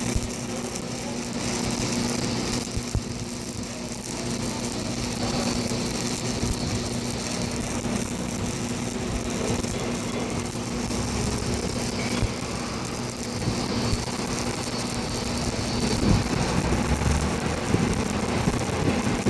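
Arc welding: a steady hiss over the constant hum of a running machine, with small irregular pops.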